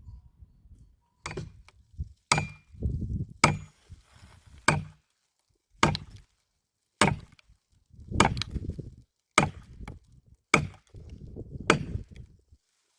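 Axe chopping firewood: about ten sharp strikes, roughly one a second, each followed by a short low rumble.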